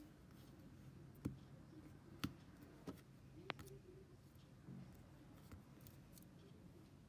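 Near silence with four light, sharp clicks or taps in the first half, the sound of small objects being handled and set down.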